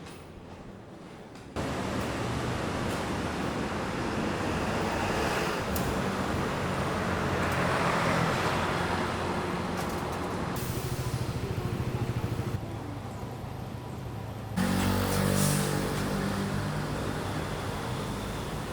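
Steady vehicle running noise in several short clips cut together, with sudden changes in level and character between them.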